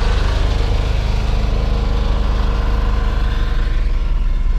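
Car engine running steadily while driving, a steady low drone with an even hum.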